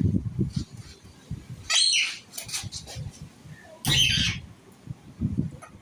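Pet parrot giving two harsh squawks about two seconds apart, over a low rumble.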